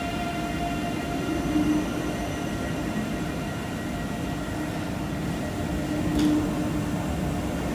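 Electric train running past on the track: a steady rumble with a held, multi-tone whine over it, and a short high squeak about six seconds in.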